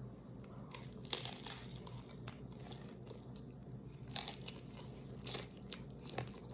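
Chewing and crunching on loaded tortilla-chip nachos, with a few sharp chip crunches, the clearest about a second in.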